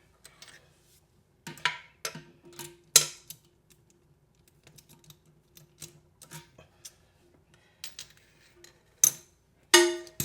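Scattered metallic clicks and clinks of hand tools and small bolt hardware being handled, with louder clanks about three seconds in and near the end, over a faint steady hum.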